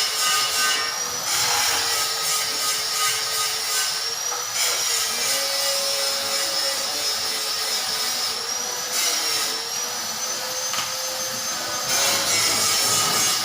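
A power tool running with a whine that dips and recovers in pitch, over a rough grinding noise.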